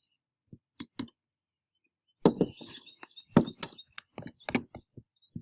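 A kitchen utensil knocking and clattering against a container while salt dough is mixed with added flour: a few faint clicks, then from about two seconds in a run of irregular sharp knocks, two or three a second.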